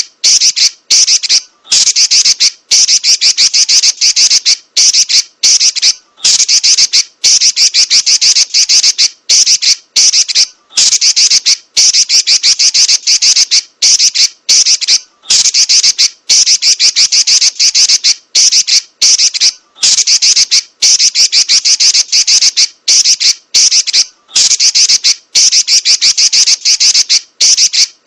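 Female Pekin robin (red-billed leiothrix) chattering in rolls: fast, harsh, high-pitched strings of rapid notes, each run lasting from about half a second to two seconds, with brief gaps between runs.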